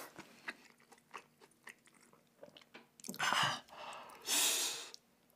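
Close-up chewing and crunching of food, many small wet clicks. Then two loud breathy vocal outbursts, about three and four and a half seconds in.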